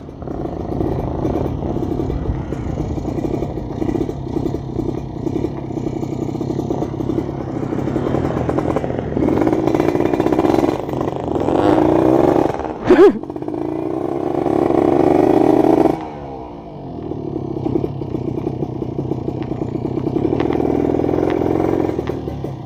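Kawasaki Ninja RR 150 two-stroke engine being ridden, its revs rising and falling as it pulls through the gears. A single sharp clack comes about halfway through, and the engine eases off briefly about two-thirds of the way in before pulling again.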